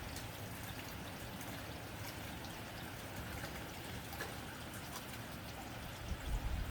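Rain falling on a tin roof: a steady patter with scattered sharper drop ticks. A low rumble swells near the end.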